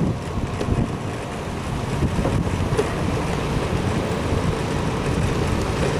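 Steady low rumble of a vehicle driving slowly, with wind buffeting the microphone.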